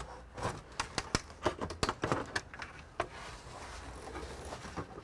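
Irregular clicks and knocks from parts being handled while an all-in-one computer is taken apart, coming thick and fast for the first three seconds, then a few scattered ones.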